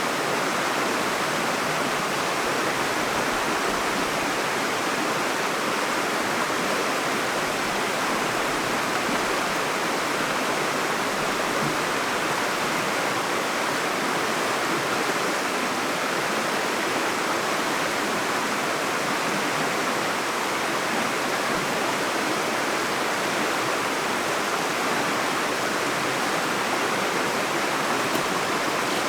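Steady rush of a trout stream's running water, an even hiss with no breaks.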